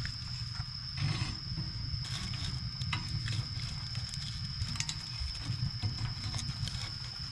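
Wood fire burning: a low rumble of flames with scattered crackles and pops, including a louder burst about a second in, over a steady high-pitched whine.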